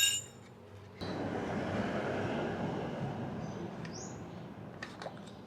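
Engine oil pouring out of the opened oil filter housing into a drain pan: a steady splashing that starts suddenly about a second in and slowly eases off. A short high chirp near the middle.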